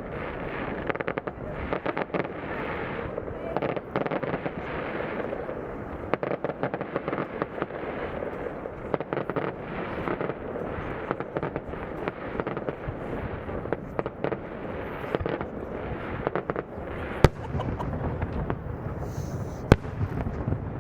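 Aerial fireworks display with a dense, continuous crackling and popping of many bursting shells. Two sharp, loud bangs stand out near the end.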